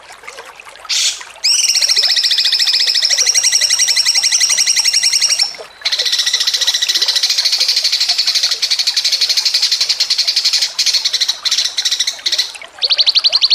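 Songbird giving fast, rapidly pulsed chattering trills, many notes a second, in long runs broken by short gaps about 5.5 and 12.7 seconds in.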